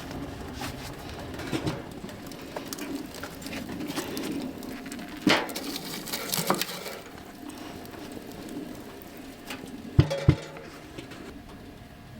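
Small handling noises: scattered clicks and light rustles, with two sharp knocks close together about ten seconds in.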